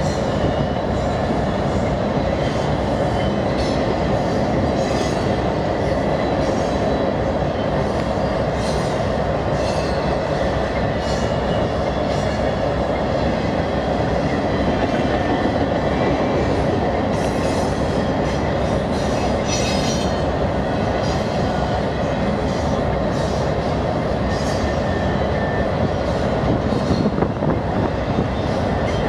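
Freight train rolling on the rails: a steady rumble of wheels on track with irregular clicks and a faint thin wheel squeal.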